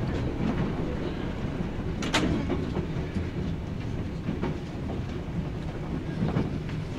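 JNR 165 series electric multiple unit running, heard inside the carriage: a steady low rumble of wheels and running gear, with one sharp, loud click about two seconds in and a few fainter clicks.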